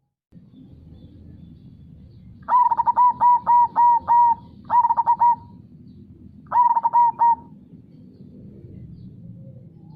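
Zebra dove (perkutut) singing its cooing song: a quick run of about six clear notes a couple of seconds in, then two shorter bursts of three notes. Underneath runs a steady low rush of river water.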